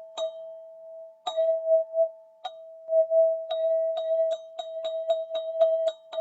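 Golden ZenTube sound-healing instrument being struck, one steady ringing tone held under the strikes. Three spaced strikes come first, then from about halfway quick even strikes, about four a second.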